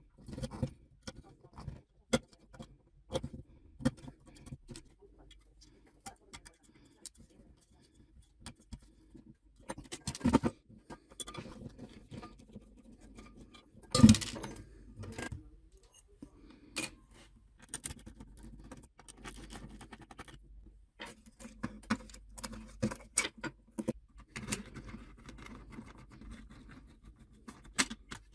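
Hand tools and parts being handled during car restoration work: irregular clinks, clicks and knocks. The loudest knocks come about ten and fourteen seconds in.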